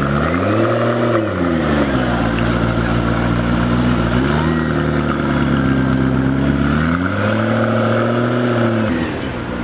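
A car engine revved from idle three times: a quick rev near the start that falls back after about a second, a lower rev held for about two seconds in the middle, and a higher rev near the end that drops back to idle.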